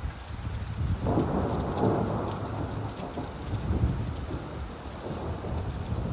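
Rain falling with a roll of thunder: a low rumble that swells about a second in and slowly dies away.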